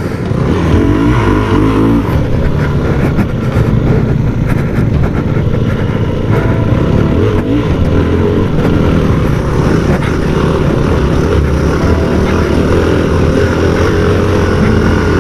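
Yamaha WR250F's single-cylinder four-stroke engine running under throttle off-road, revs rising and falling as it is ridden.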